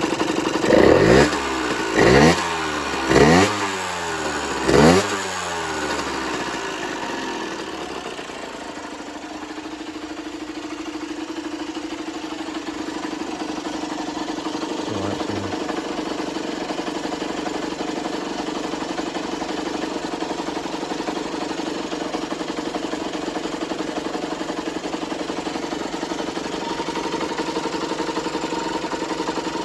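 Generic Trigger SM 50cc two-stroke engine revved in four short blips in the first five seconds, then settling to a steady idle. It runs fine again after a blocked main and pilot jet and an air leak at the intake manifold were fixed.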